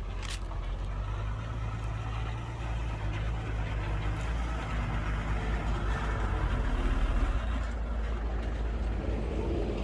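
Heavy construction machine's diesel engine running steadily with a deep drone, with one sharp click just after the start.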